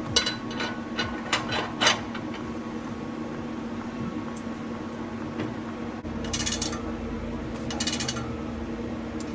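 Stainless-steel exhaust pipe pieces clinking and knocking as they are handled and test-fitted together, with several sharp clinks in the first two seconds and two longer metallic rattles about six and eight seconds in. A steady hum runs underneath.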